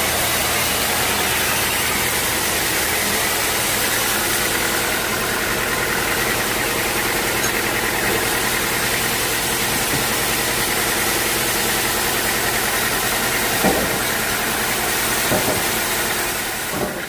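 Sawmill machinery running steadily with a mechanical hum, with two short knocks near the end.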